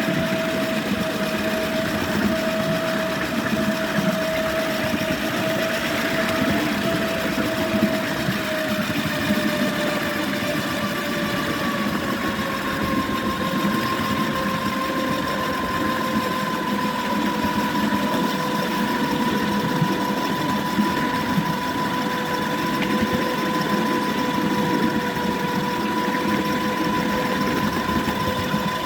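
Miniature electric locomotive running, its motors giving a steady whine over a continuous mechanical rattle of the running gear; the whine drops a little in pitch about a third of the way through and then holds steady.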